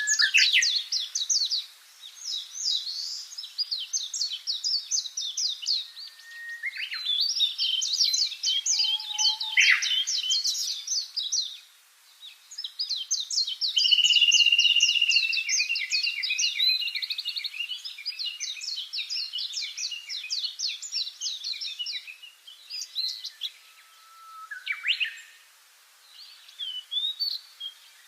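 Birds singing: long runs of rapid, high, repeated chirping notes, several songs overlapping, with a brief lull about twelve seconds in and another near the end.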